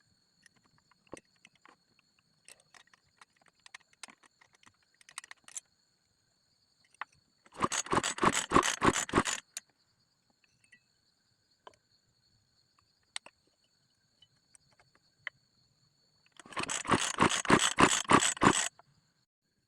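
Rebuilt small motorcycle engine turning over in two start attempts. Each time it chugs in rapid, even pulses for about two seconds, then stops. Faint clicks and rattles come between the attempts.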